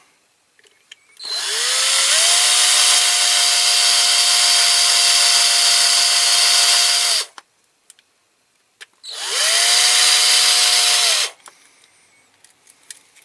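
Electric drill drilling out the rear rivet of a diecast toy car's base, run twice: a long run of about six seconds, then a short one of about two, each rising in pitch as it spins up and dropping as it stops.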